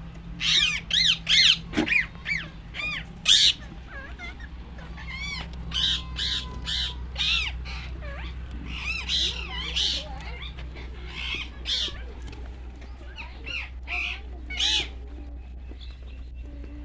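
Birds calling: many short calls, each rising then falling in pitch, coming several a second in the first few seconds and then more sparsely. A steady low hum runs underneath.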